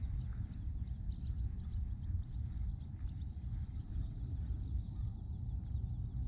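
Outdoor ambience on the river: a steady low rumble of noise with faint, scattered high bird chirps.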